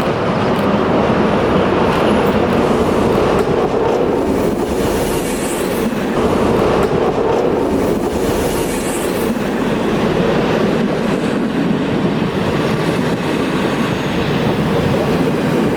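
A train running by on rails, loud and steady, with the wheels clattering over the track. There are two brief high-pitched squeals, about five and eight seconds in.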